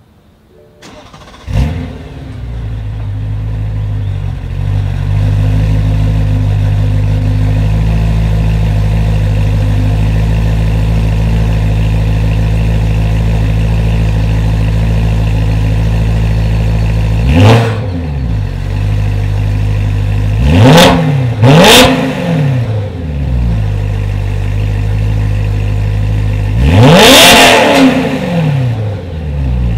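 BMW E92 M3's 4.0-litre V8 through an M Performance exhaust, cold-starting: it fires about a second and a half in and settles into a steady fast idle. It is then revved four times, each rev falling back to idle, the last rev the longest.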